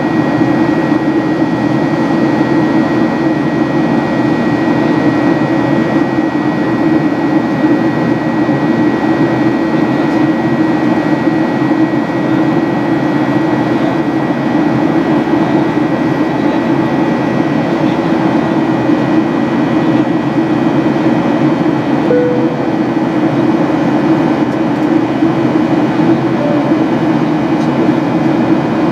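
Steady cabin noise of a Boeing 737-800 in the climb after takeoff: the CFM56-7B engines and rushing airflow heard from inside the cabin as a constant low rumble, with a faint steady high tone.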